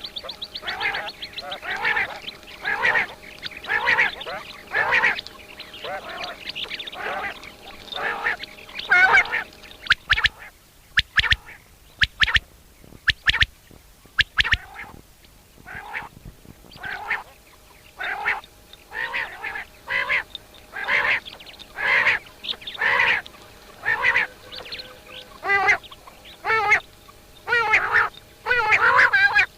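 Birds calling: a long series of short, harsh nasal notes, roughly one or two a second, with a run of sharper, clipped notes partway through.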